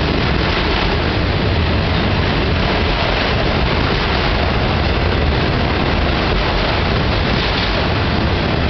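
Enclosed autorack freight cars rolling past: a steady rumble and rush of steel wheels on rail, with no breaks or changes.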